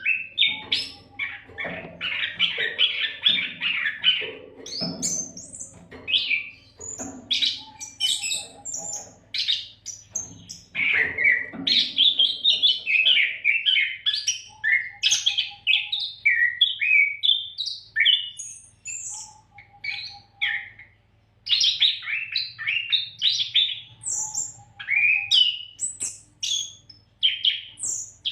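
Oriental magpie-robin (kacer) singing a long, unbroken run of varied whistled phrases, with short pauses between them. A faint steady low hum lies underneath.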